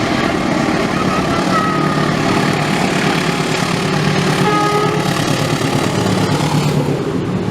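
Train passing close by: a loud, steady rumble of engine and running gear on the rails, with a couple of brief high squeals or tones near the start and the middle.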